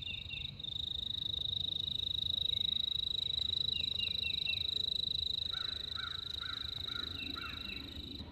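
An insect trilling steadily on one high, fast-pulsed note that starts about half a second in, with small birds chirping over it in short runs of three or four notes.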